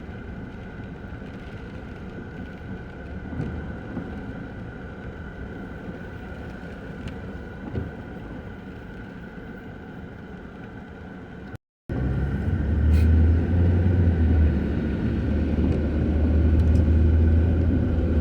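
Steady motor-vehicle road noise. The sound cuts out for a moment about twelve seconds in, then comes back with a louder, steady low rumble.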